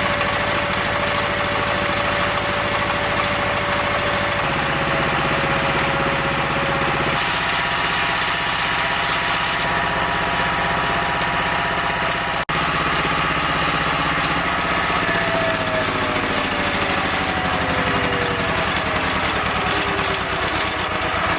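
Engine-driven 10 kW generator running steadily on test after a rewind of its burnt-out windings. In the last few seconds a whine falls slowly in pitch.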